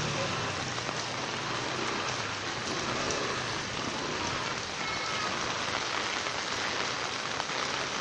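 Steady rainfall, an even hiss that holds at one level.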